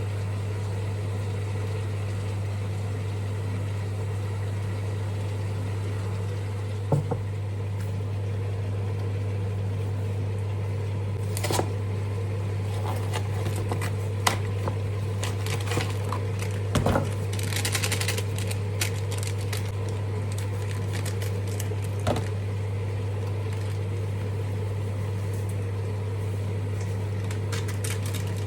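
A kitchen appliance hums steadily, with a low mains-type drone and a fainter higher tone, while a handful of sharp clicks and knocks from handling things in the kitchen break in, and a short hiss comes about two thirds of the way through.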